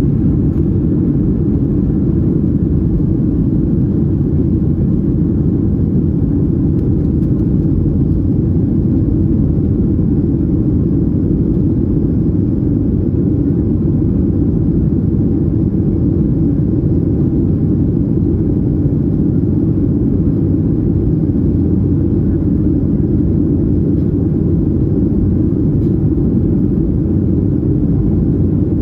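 Boeing 737-800 cabin noise: a steady, loud, low rumble of engines and airflow.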